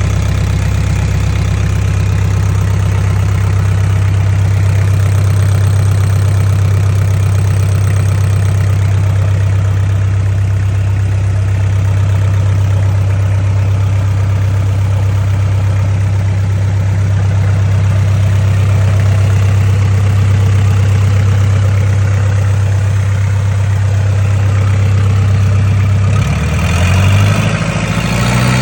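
Nissan QD32 3.2-litre four-cylinder diesel engine idling steadily on a test run. Near the end it is revved up and the pitch rises.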